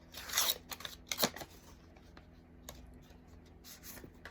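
Paper rustling as a small greeting card is taken out and opened, with two short louder rustles in the first second and a half, then faint handling.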